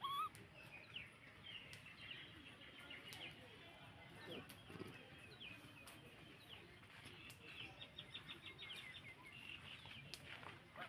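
Faint small birds chirping and twittering, with a rapid trill about three-quarters of the way through. A short rising squeak at the very start is the loudest sound.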